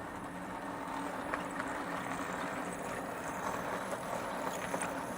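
Brass O scale model steam locomotive running along the track: a steady rolling rattle of wheels and gearing over a low motor hum, with small clicks.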